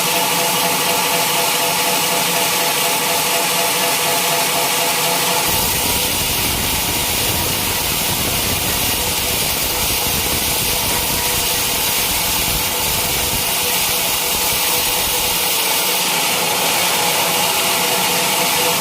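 Band sawmill running steadily while sawing teak: a motor hum over a hiss, with a deeper rumble joining from about five seconds in until about fifteen seconds in.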